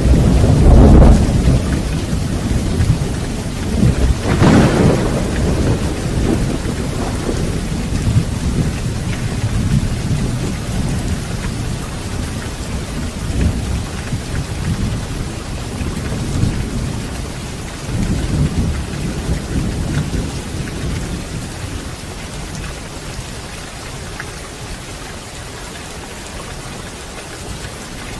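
Rain falling steadily with rolling thunder. Loud low rumbles swell about a second in and again around four to five seconds in, then die away. A further low roll comes about two-thirds of the way through, leaving the rain alone toward the end.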